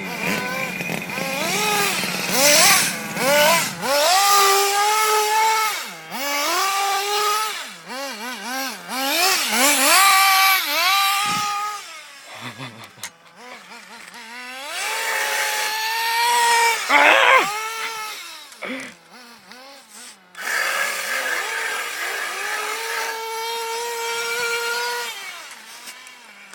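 Radio-controlled car's motor revving in repeated surges, a whining note that rises and falls as the car speeds up and slows down, with a couple of brief lulls along the way.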